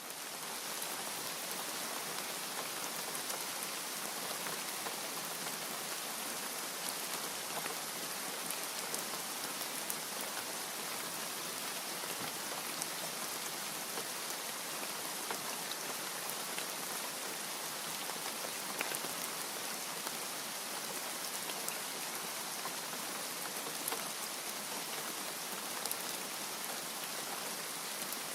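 Steady rain falling, a dense even hiss with faint scattered drop ticks through it. It fades up quickly at the very start, then holds level.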